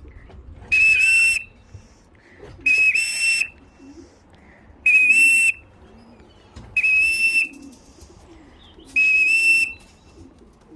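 A whistle blown to call a returning racing pigeon in to the loft: five short, steady, shrill blasts about every two seconds, each dipping slightly in pitch at its end.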